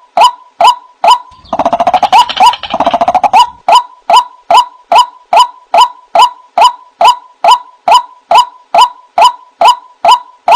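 White-breasted waterhen (ruak-ruak) calling: a loud, steadily repeated short note a little over twice a second, played as a trapping lure call. From about a second and a half in to about three and a half seconds, a rapid, rougher chattering run overlaps the calls.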